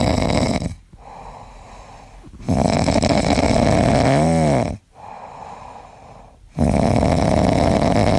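A pet snoring loudly in long rasping snores about four seconds apart, each lasting about two seconds, with quieter breaths between; the middle snore carries a brief whine that rises and falls.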